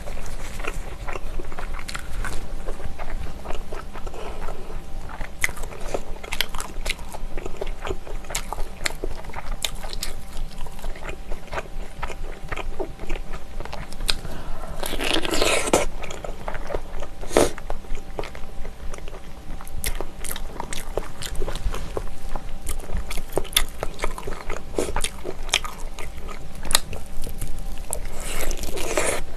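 Close-miked eating of braised ox knee (dogani): biting into gelatinous meat and tendon and chewing it, with many small clicks and crackles. Louder, longer bursts of chewing come about halfway through and again near the end.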